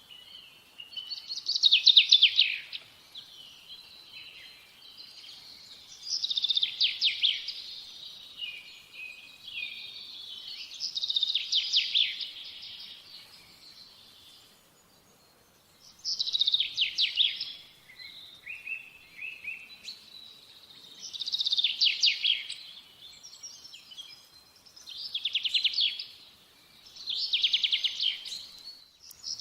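A songbird singing the same short, rapidly trilled phrase over and over, about seven times, every few seconds, with fainter chirps between the phrases.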